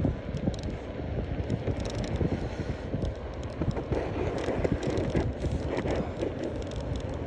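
Wind buffeting a phone's microphone while riding a bicycle: an uneven low rumble, with scattered short clicks and rattles.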